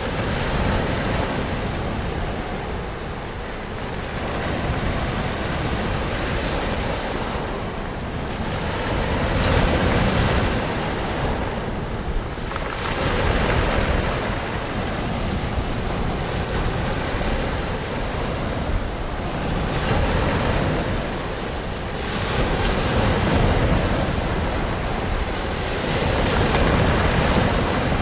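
Ocean waves breaking and washing up in a steady surf, swelling and ebbing every few seconds, with a low rumble of wind on the microphone.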